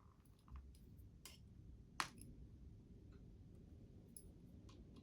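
Faint small clicks and ticks of tiny parts being handled on a model locomotive's motor, with one sharper click about two seconds in, as the carbon brushes are taken out again.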